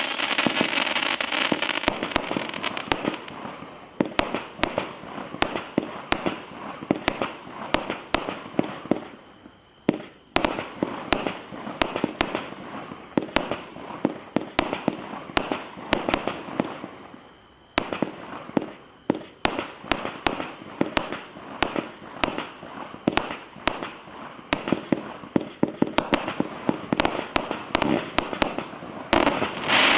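Bulldog Fireworks Grand Finale 600-series fireworks going off: a rapid string of sharp bangs and cracks over a crackling hiss. It thins out briefly twice, and a loud burst comes near the end.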